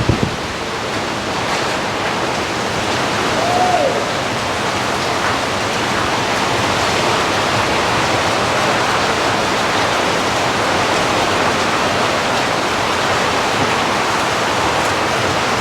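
Steady, loud rush of water in a tropical storm, with a short falling note about three and a half seconds in.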